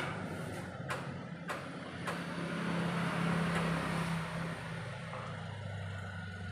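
An engine running steadily with a low hum, with a few sharp clicks in the first two seconds.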